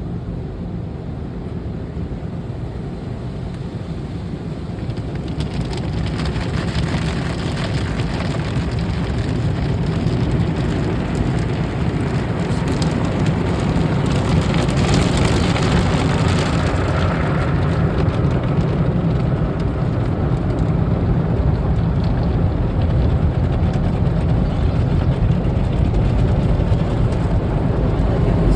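Automatic tunnel car wash working over the car, heard from inside the cabin: a steady noise of water spray and machinery that grows louder about five seconds in.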